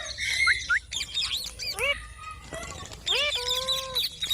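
Pet green parrot calling in a rapid run of short, sliding chirps and squawks, with one longer held call near the end.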